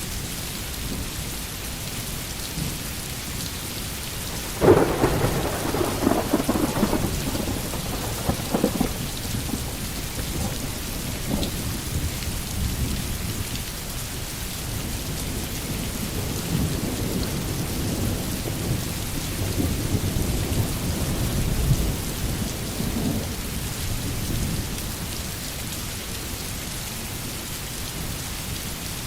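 Steady rain pattering on a tin roof, with thunder: a sharp crack about five seconds in that rolls on for several seconds, and a longer low rumble later.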